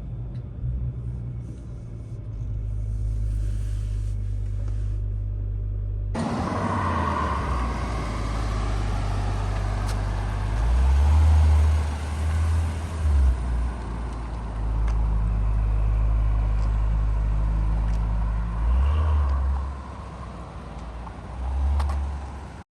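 2021 Acura TLX Type S's 3.0-litre turbocharged V6 running while the car drives, a low steady engine hum under road noise. The sound turns fuller about six seconds in, and the engine note swells louder a few times, around ten to thirteen seconds in and again near the end.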